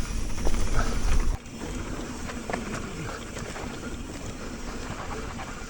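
Wind rumbling on the mic of a mountain bike rider's camera while riding downhill. About a second and a half in it drops off suddenly as the bike slows, leaving quieter tyre noise on loose dirt and small clicks and rattles.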